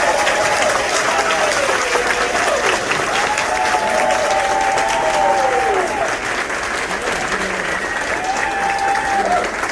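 Audience applauding, with voices calling out in long drawn-out cries over the clapping.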